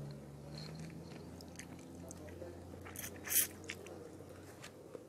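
Close-up mouth sounds of eating soft, juicy yellow fruit: wet chewing and small clicks, with one louder noisy smack a little past halfway.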